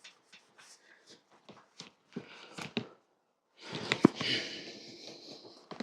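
An oily rag rubbing over a stripped steel bicycle frame in short wiping strokes, with light clicks and knocks, a brief pause partway through, and one sharp knock about four seconds in.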